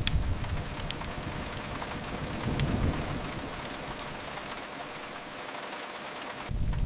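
Steady rain hiss, as of rain on a window, with a few sparse sharp crackles from a wood fire. A heavy low rumble fades away at the start and swells back in near the end.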